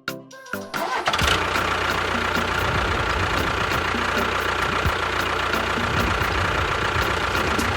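An engine starts about a second in and then runs steadily, with a low rumble and a steady whine above it.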